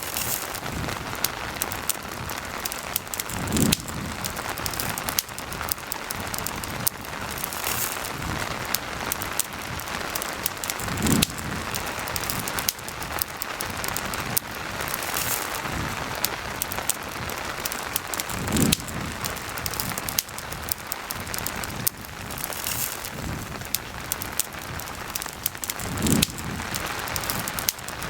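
Steady rain hiss mixed with a crackling campfire, dense fine crackles over the even noise. A soft low thump comes about every seven and a half seconds.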